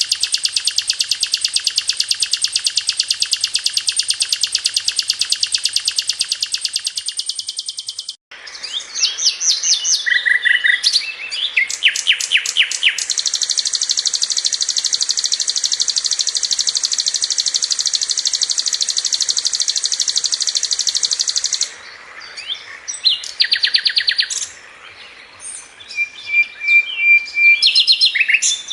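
Sikatan londo (brown-chested jungle flycatcher) song: a long, very fast, tight trill of high repeated notes that cuts off abruptly about eight seconds in, then varied short chirping phrases, a second long even trill, and scattered chirps and short trills near the end.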